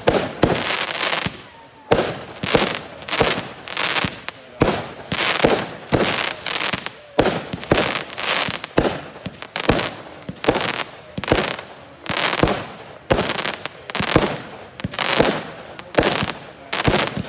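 Fireworks display: a rapid, unbroken series of bangs and crackling bursts, several a second.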